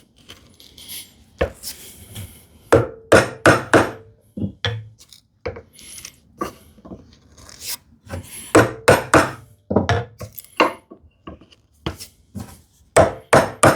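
Bevel-edge chisel paring the walls of a mortise in wood: irregular clusters of short, sharp cutting clicks and taps, with short pauses between the groups.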